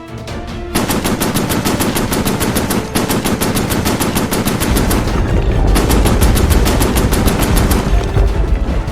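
Rapid machine-gun fire as a sound effect: a fast, even rattle of shots that starts about a second in and stops shortly before the end, with a heavier low rumble under it in the second half.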